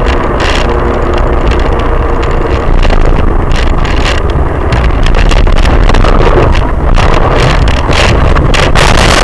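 Loud vehicle running noise recorded on a dashcam: a steady low rumble with wind buffeting the microphone and many sharp knocks and rattles throughout.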